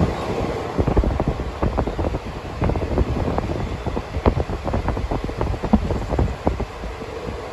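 Express train running at speed, its wheels knocking irregularly over rail joints and points under a steady rumble, with wind buffeting the microphone at the open door.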